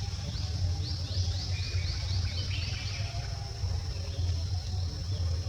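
A bird calling a quick run of about ten short falling notes, about four a second, in the first half, over a steady high-pitched insect drone and a low rumble.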